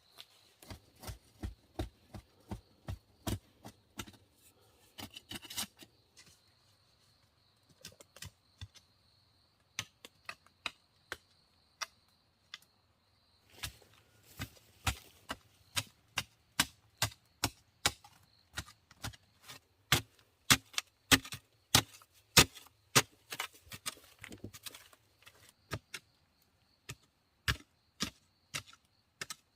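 Wood being chopped with a blade: sharp strikes, about one to two a second, with a couple of short pauses, growing louder after the middle.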